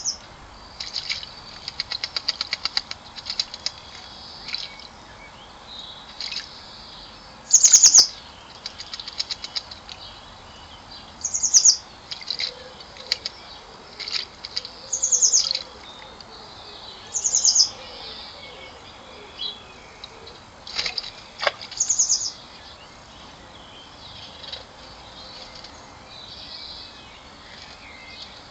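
Garden bird giving loud, short, high-pitched calls about six times at uneven intervals, with softer chirps and runs of rapid ticking in between.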